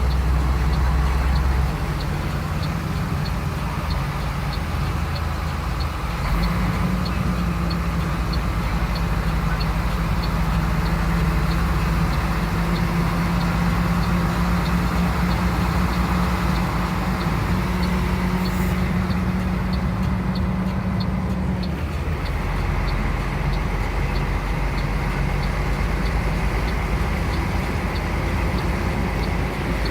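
A motor vehicle's engine running steadily; its hum steps up about six seconds in and drops back a little past twenty seconds. A faint, regular tick comes a little more than once a second throughout.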